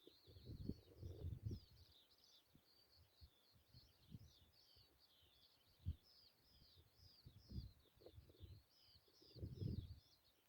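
Faint songbird singing an unbroken stream of rapid, high twittering notes. Now and then low rumbles come through, loudest near the start and about 6 and 9.5 seconds in.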